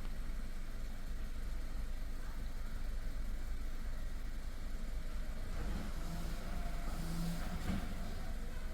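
Car engine running in a 2020 Kia K3 with the Gamma II MPI engine, a steady low rumble; in the second half a steady hum and more noise come up for a couple of seconds and then fade.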